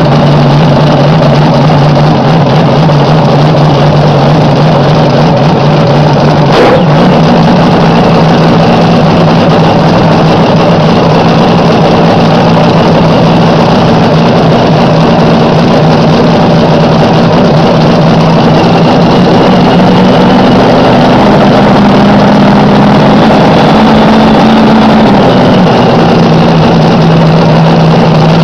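Slingshot dragster's alcohol-fuelled engine idling loud and steady during warm-up. A single sharp crack comes about a quarter of the way in, and near the end the revs are held a little higher for a few seconds before dropping back to idle.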